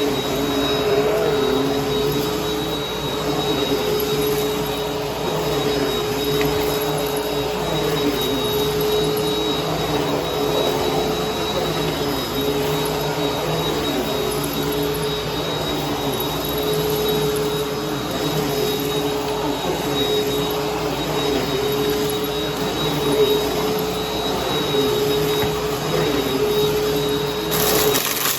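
Bissell Helix vacuum cleaner running steadily with a droning hum, while crunchy debris crackles as the brush roll picks it up. Near the end the hum drops away and a higher, hissing sound takes over.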